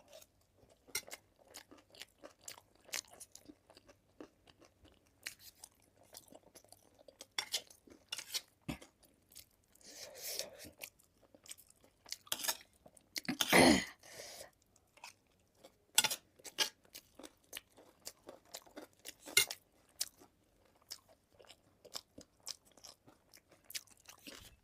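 Close-miked chewing and crunching of food, a run of short sharp mouth clicks and crunches with one louder burst about halfway through.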